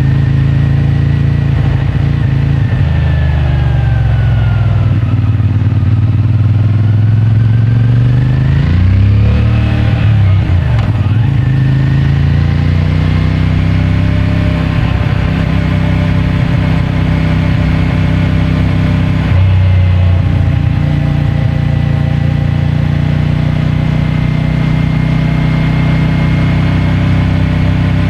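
CFMOTO 450MT's parallel-twin engine through its stock exhaust, heard while riding. The engine note eases down over the first few seconds, rises sharply about nine seconds in, drops back, then holds a steady cruise with a brief dip about nineteen seconds in.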